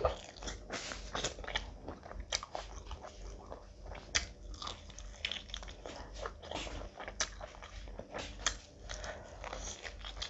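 Close-miked chewing and biting of a mouthful of food eaten by hand, with irregular crunches and sharp clicks throughout.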